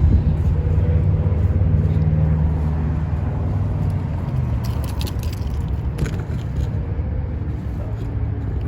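Car running, a steady low engine and road rumble that eases off a little, with a few short clicks about five and six seconds in.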